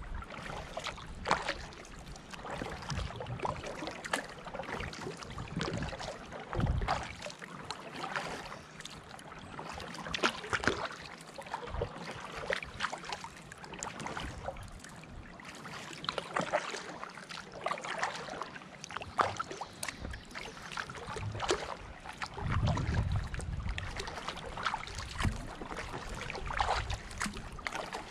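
Kayak paddling: the paddle blades dip and splash in the water in an irregular run of strokes, with water dripping and trickling off the blades.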